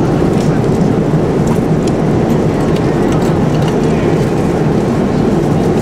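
Steady airliner cabin noise in flight: the low, even rush of engines and airflow heard from inside the cabin, with a few faint light clicks.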